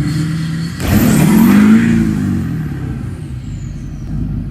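1984 Dodge Ram pickup's engine revved hard about a second in, the pitch climbing and then sinking back over about two seconds, with a rushing hiss alongside the surge, as the truck tries to drive out of being stuck in water.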